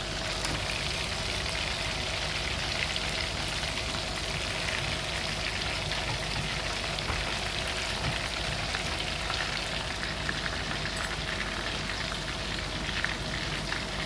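Breaded chicken strips deep-frying in hot oil: a steady, dense sizzle full of fine crackles, about five minutes into the fry.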